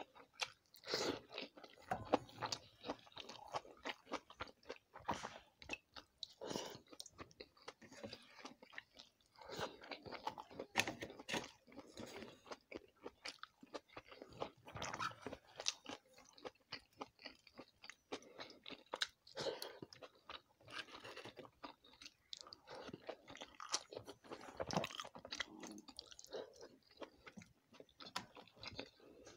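Close-up chewing and wet mouth sounds of a person eating watery pakhala rice and fried vegetable bhaji by hand, in many short, irregular chews and smacks.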